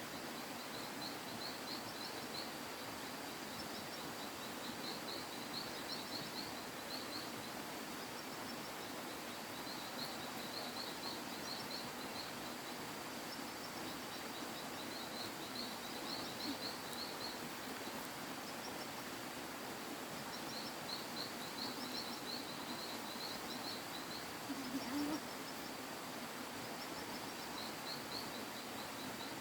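Outdoor ambience: a steady background hiss with short runs of rapid, high chirps repeating every few seconds, and one brief, louder low sound a few seconds before the end.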